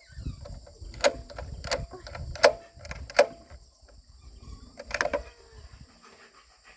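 Five sharp knocks, several with a brief metallic ring, spread over the first five seconds, amid low rumbling handling noise.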